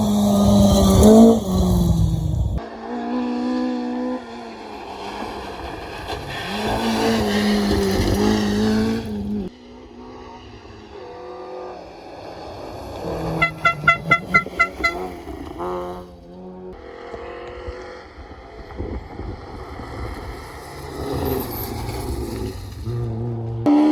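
Rally cars passing at speed, engines revving up and down through the gears, in several short takes that cut off abruptly. About halfway through comes a rapid string of about eight loud pops.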